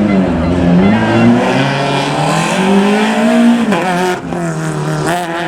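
Rally car engine revving hard, its pitch rising and falling through gear changes. A long climb in revs from about two seconds in ends in a sharp drop just before four seconds.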